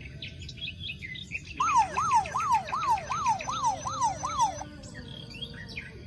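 Electronic toy sound effects: a string of quick, high, bird-like chirps, joined for about three seconds in the middle by a siren-like warble that sweeps up and down about eight times, then stops abruptly.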